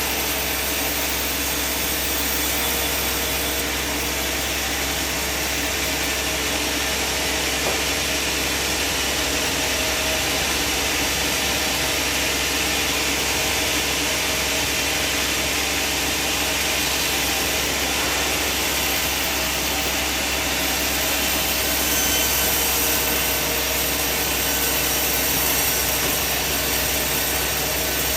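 Sawmill machine running steadily with a continuous mechanical noise, with no clear start or stop.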